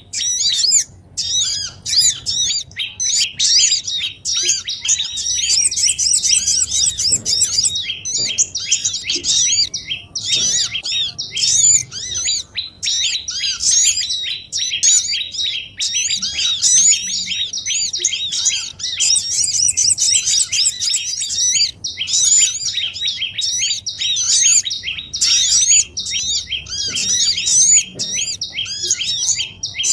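Bird-lure recording of many small songbirds chirping and chattering at once, a dense unbroken stream of rapid, quick-rising high notes. This is a noisy mixed chorus played back to draw small wild birds down to a trap.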